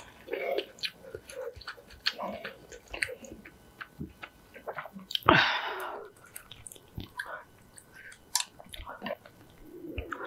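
Close-up eating sounds of spicy instant ramyeon being eaten: wet chewing and small mouth clicks, with one louder airy rush of breath about five seconds in.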